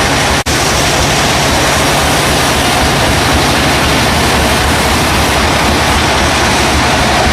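Sawmill machinery running with a loud, steady noise and a low engine rumble. It cuts out for an instant about half a second in.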